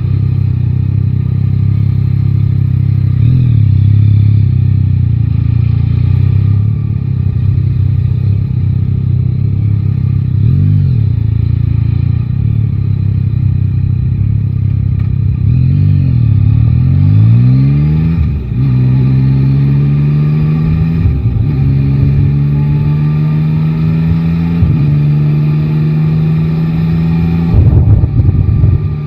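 Yamaha Tracer 9 GT's three-cylinder engine running steadily at low revs, then accelerating from about halfway through, the pitch rising and dropping back at each upshift every few seconds. A brief louder burst comes near the end.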